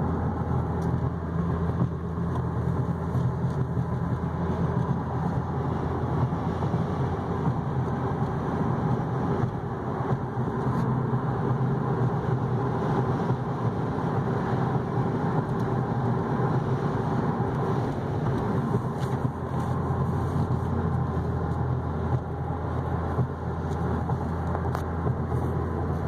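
Cabin noise of a 2014 Cadillac ATS V6 cruising at steady highway speed: even tyre and road noise over a low, steady engine drone.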